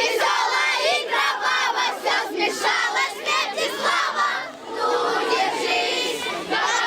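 A group of children chanting their song together, half shouted and half sung, with many voices overlapping and no instrumental accompaniment.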